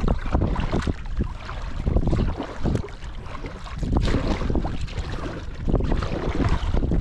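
Wind buffeting the microphone, rising and falling in gusts, with water splashing around a kayak at sea.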